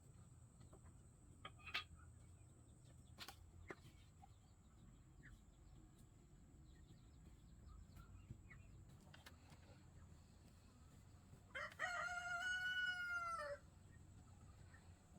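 A rooster crowing once near the end, a single call of about two seconds, over a quiet background with a few faint clicks earlier on.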